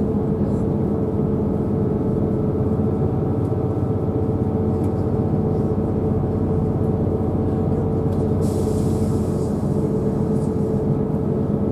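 Steady running drone heard inside a diesel passenger train on the move, with a constant low hum from the engine and wheels. A short hiss of air lasting about a second comes about eight and a half seconds in.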